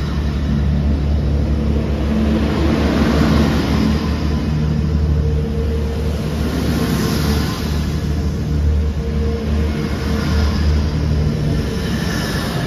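Grand Central Class 180 diesel multiple unit's engines running as the train pulls out, a steady low drone over a rumble.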